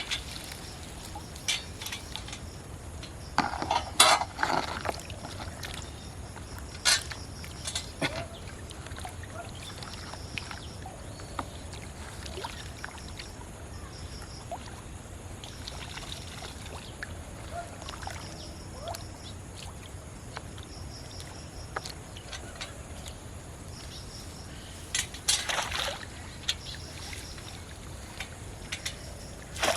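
Pond water splashing and trickling as it is worked by hand and net, with a few sharper splashes about 4, 7 and 25 seconds in over a steady low background hiss.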